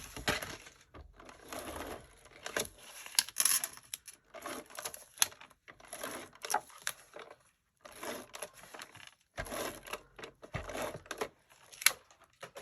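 Adhesive tape runner being drawn across cardstock in a series of short strokes, with sharp clicks and paper being handled between them.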